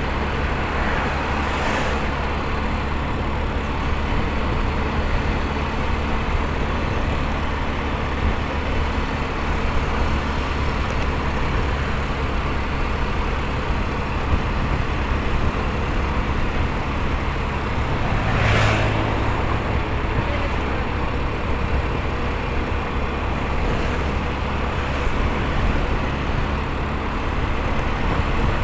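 Steady engine and road noise of a motorcycle ride, with another vehicle passing close by about two-thirds of the way through.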